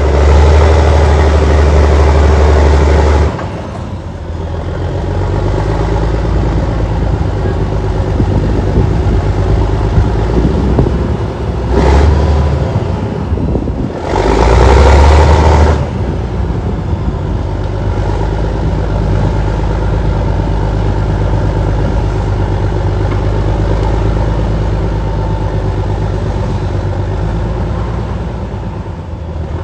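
Allis-Chalmers HD-21 bulldozer's diesel engine running steadily under work, loud and low for the first three seconds, then settling, with short surges of power at about 12 and 15 seconds.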